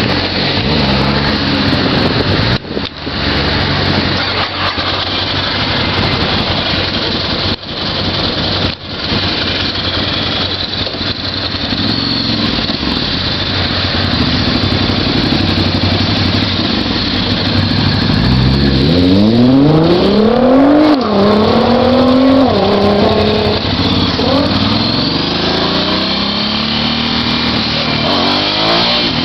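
Motorcycle engine noise. A dense rough roar fills the first two-thirds, then the engine's pitch climbs steeply several times in a row, falling back between climbs, as a bike accelerates through its gears.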